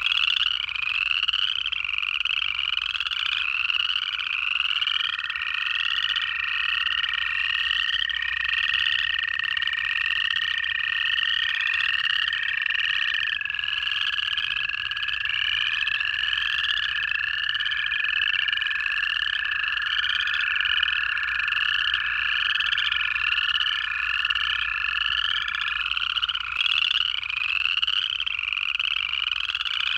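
Pond chorus of upland chorus frogs giving rising trills over and over, about two a second, overlapped by the long, steady, several-second trills of American toads.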